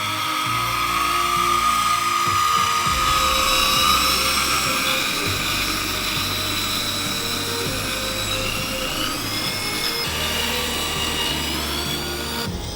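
Small electric motors of a 1/14 scale LESU KC300HR-5 RC tracked dump truck whining, with the pitch gliding and rising a couple of times late on as the motors speed up. Background music with a low bass line plays underneath.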